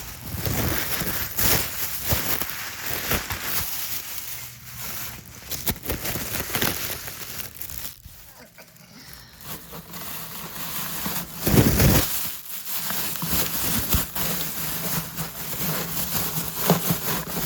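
Irregular rustling and crinkling with scattered knocks and clatter from hands handling things while cleaning, with a louder knock about two-thirds of the way in.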